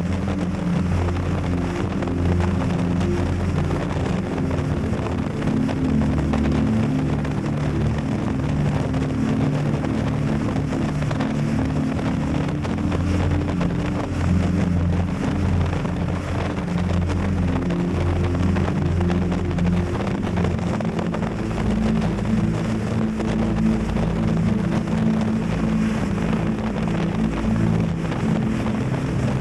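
Yamaha Tracer 7 GT's 689 cc parallel-twin engine running under way on the road, its note stepping up and down several times with a change about twenty seconds in, under steady wind noise on the action camera's microphone.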